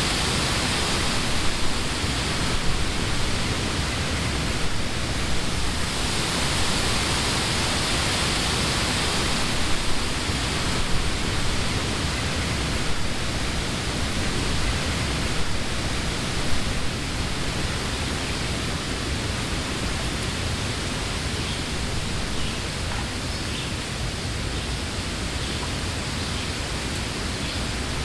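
Summer wind blowing through leafy trees, a steady rushing rustle of leaves that swells in gusts in the first half and eases a little toward the end.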